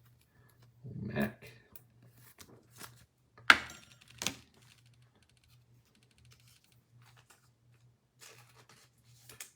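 Trading cards and pack wrappers handled by hand: light clicks and rustles, with two sharp snaps less than a second apart a little past three seconds in.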